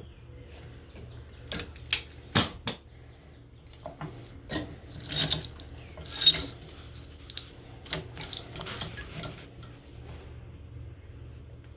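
Irregular metallic clicks, clinks and knocks from engine parts being handled and worked on during an ATV top-end rebuild, with a steady low hum underneath. The clatter starts about a second and a half in and dies away about two seconds before the end.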